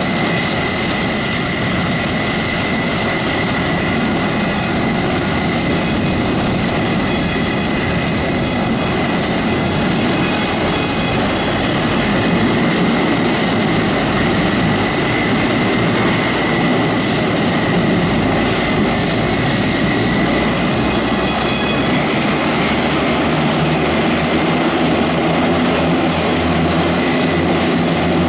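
Airbus A400M's TP400-D6 turboprop engines running on the ground, a steady turbine whine over the propeller noise. About two-thirds of the way through, a low, even propeller hum with several steady tones comes in and holds.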